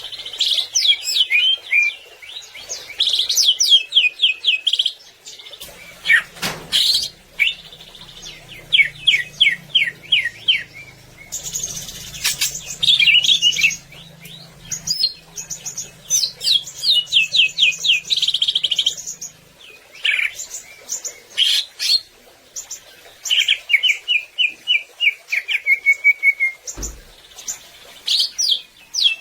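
Greater green leafbird (cucak ijo) singing in rapid runs of sharp, high chirps and trills broken by short pauses, in the full 'gacor' song used as training song for caged birds.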